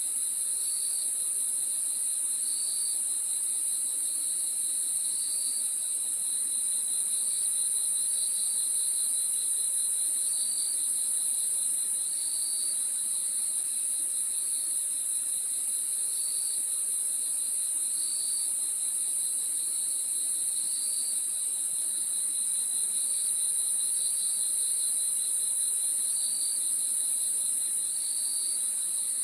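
Crickets chirping continuously: a steady high-pitched trill, with another cricket's short chirps repeating every second or so over it.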